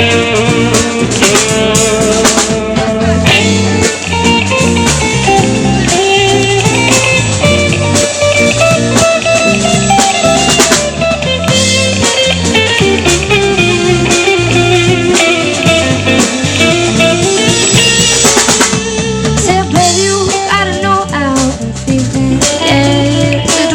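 Live band playing an instrumental passage: electric guitar over a drum kit with bass.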